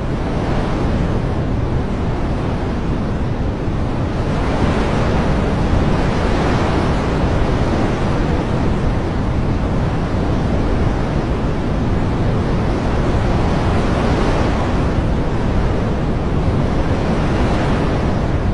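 Steady, dense rushing of water noise, swelling gently a couple of times.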